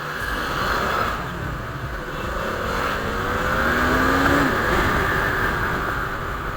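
Road noise from riding a motorcycle: wind rushing steadily over the microphone, with a vehicle engine rising in pitch from about two and a half seconds in, loudest around four seconds.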